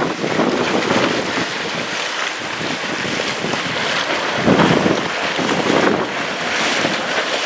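Wind buffeting the microphone over the rush and splash of water along a sailboat's hull, with louder surges of wash about halfway through.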